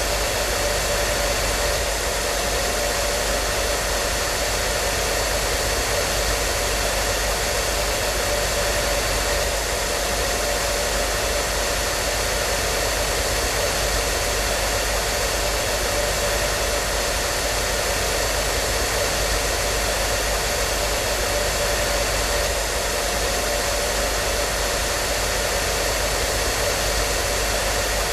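Hair dryer running steadily: an even, unchanging rush of air with a faint steady motor hum.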